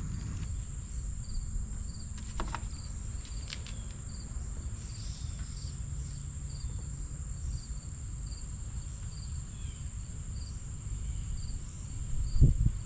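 Crickets chirping steadily over a low rumble, with a couple of faint clicks early and one louder thump near the end.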